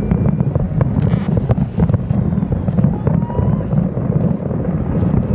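Distant New Year fireworks barrage: a continuous low rumble with many sharp pops and crackles scattered through it, mixed with wind buffeting the microphone.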